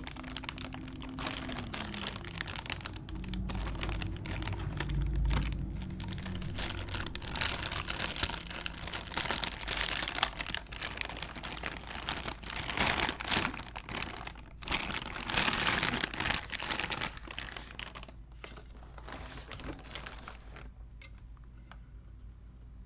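Plastic packaging crinkling and crackling as it is handled and pulled apart to free a toy figure's parts, busiest in the middle and thinning out near the end.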